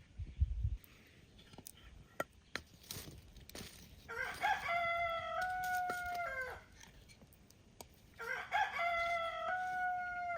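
Rooster crowing twice, each crow about two and a half seconds long with a rise and a long held note. There are a few low thumps in the first second.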